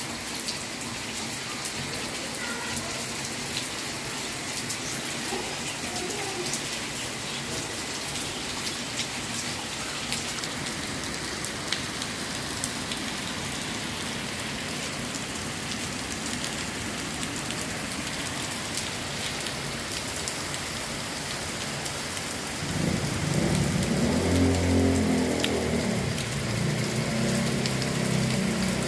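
Heavy rain pouring down, a steady hiss of drops spattering on surfaces. Near the end a louder low rumble sets in over the rain.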